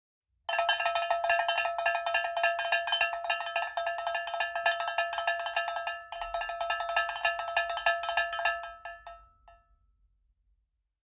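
Rapid metal-on-metal tapping with a bright ringing tone, breaking off briefly about six seconds in and fading out near the end.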